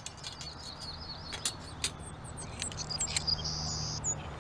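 Small birds chirping in quick high notes, with a few light clicks and a low steady hum underneath.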